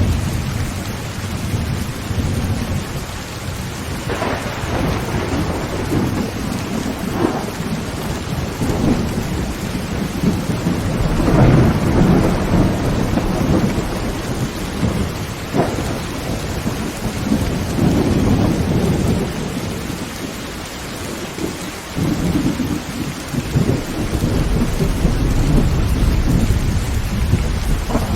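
Heavy rain drumming on a tin tent roof, with thunder rolling through repeatedly. There are several sharper cracks, and the loudest peal comes about halfway through.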